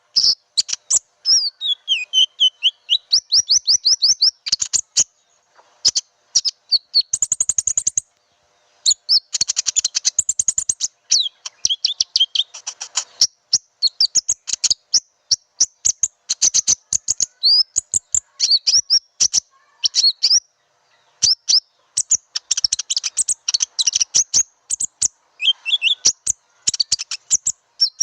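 Konin bird lure call: runs of rapid, high-pitched chirps and trills, with fast sweeping notes, broken by short silent pauses.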